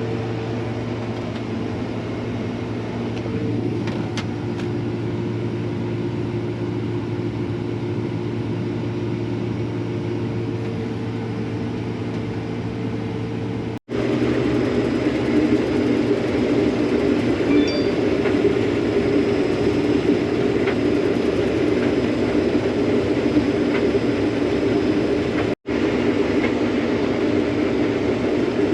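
Combine harvester running steadily, a constant engine and machinery drone. It cuts out for an instant about halfway through and comes back louder, with another brief dropout near the end.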